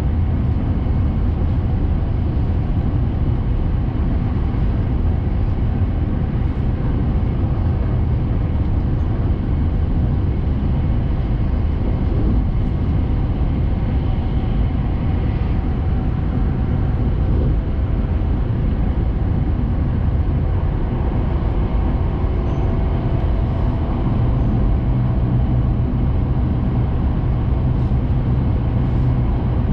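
Steady low rumble of a Hayabusa Shinkansen train running at speed, heard inside the passenger cabin.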